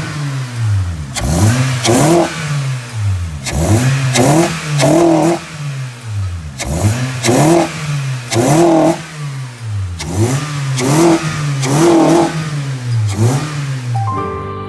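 Honda Civic engine with an aftermarket full exhaust system being revved repeatedly in short blips, about one a second, the exhaust note rising and falling with each rev.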